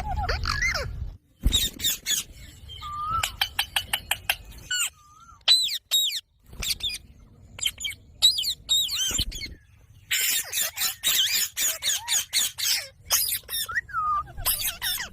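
Rose-ringed (Indian ringneck) parakeet squawking: many short, sharp screeches in quick runs, densest in a rapid flurry about two-thirds of the way in, with a few short whistled notes between them.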